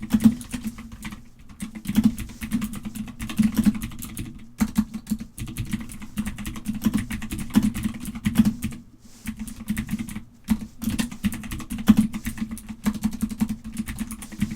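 Computer keyboard being typed on: a fast, irregular run of key clicks with a few short pauses, as a search phrase is keyed in.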